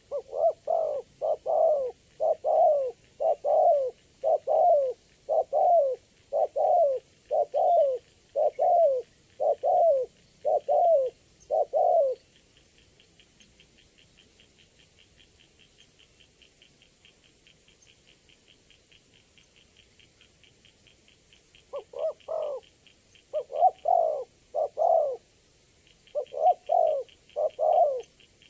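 Spotted dove (tekukur) cooing: a steady run of repeated coo phrases, then a pause of about ten seconds before the cooing starts again about 22 seconds in.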